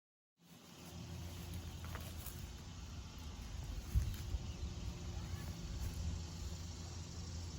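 1995 Carrier TECH2000 Silencer System heat pump running: a steady compressor hum under the even rush of the condenser fan, starting after a brief silence about half a second in. A single short thump sounds near the middle.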